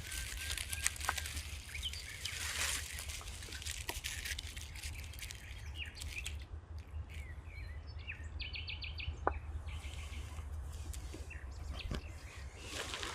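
Forest birds calling with short chirps, including a quick run of about six high notes near the middle, over a steady low rumble and intermittent rustling.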